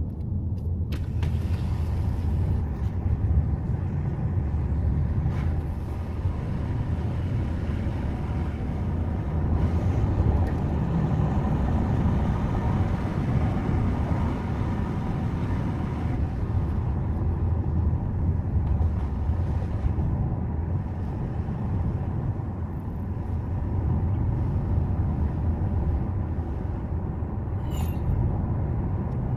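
Subaru Forester driving up a mountain road, heard from inside the cabin: a steady low rumble of engine and tyre noise with no change in pace. A short click sounds near the end.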